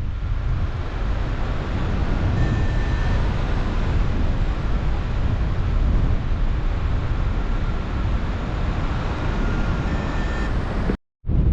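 Wind rushing and buffeting over the microphone in flight, a steady rumbling noise heaviest in the bass, cutting out briefly near the end.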